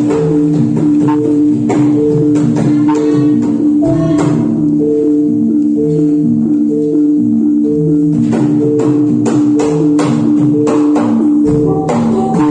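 Gamelan music accompanying a jathilan dance: a repeating pattern of struck metallophone notes over a steady sustained tone, with drum strokes that come thicker about two-thirds of the way through.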